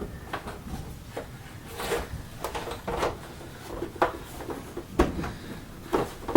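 Plastic housing parts of a Vax Power 7 Pet upright vacuum cleaner being handled and pushed back together, with irregular clicks and knocks of plastic on plastic.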